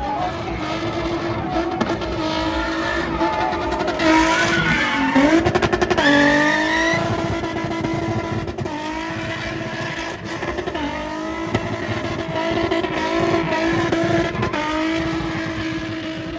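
Car engine held at high revs at a steady pitch, surging higher with a rapid stutter about four to six seconds in, then settling back.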